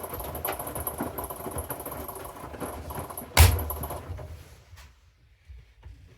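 Washing machine running with a dense rattling noise, a single loud knock about three and a half seconds in, after which the running sound dies away to near quiet with a few small clicks.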